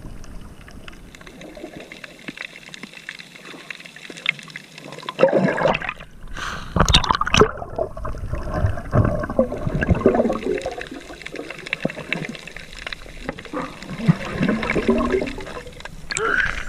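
Water sloshing and splashing close by, irregular, with a louder spell of splashing about five seconds in.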